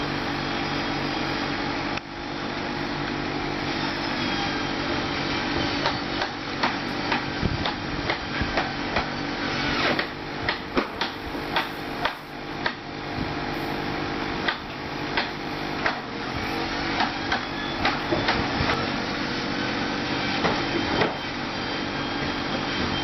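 A small motor whirring steadily, with many sharp clicks and knocks through the middle stretch, as toy vehicles are handled and moved.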